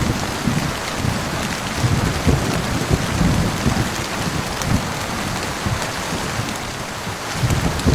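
Steady rain falling, with a low thunder rumble swelling and fading beneath it.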